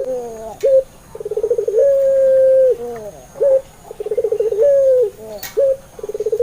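Puter pelung dove cooing: a fast rolling trill that runs straight into a long, level held coo, then drops away. The phrase repeats about every three seconds, with a short single coo note between phrases.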